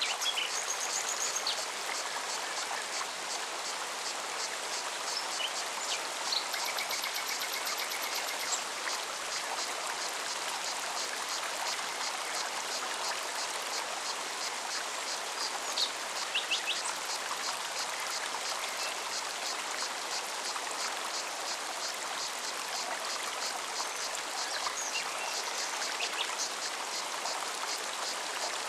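Forest stream running steadily, with a cicada's fast, even pulsing song over it for almost the whole time. A few short bird calls break in now and then, one of them a high trill about seven seconds in.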